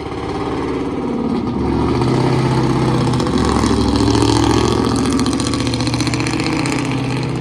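Straight-piped four-cylinder Chevrolet Cavalier race car engine running and being revved, its exhaust growing louder over the first couple of seconds.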